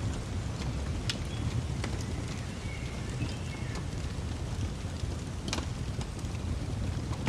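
Fireplace crackling: a steady low rustle of burning wood broken by a few sharp pops, about three of them. Faint, short bird chirps sound in the background.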